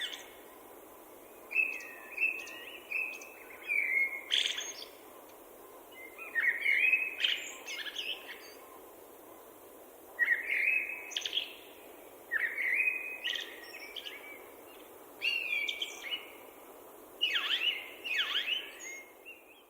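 A songbird singing short warbled phrases, repeated every two to three seconds with brief pauses between, over a steady low hiss.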